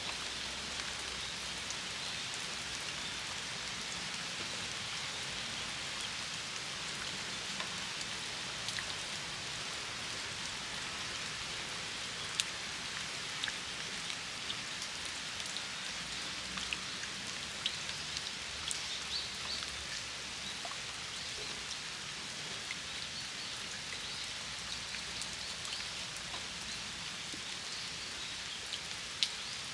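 Steady rain falling on a flower-filled stone water basin: an even hiss with scattered sharp drip ticks, a few of them louder near the middle and end.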